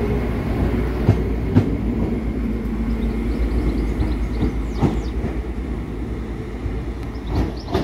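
NI Railways Class 4000 diesel multiple unit pulling away: a steady low rumble with a few sharp clicks of wheels over rail joints, easing off slightly as it draws away. Birds chirp faintly near the end.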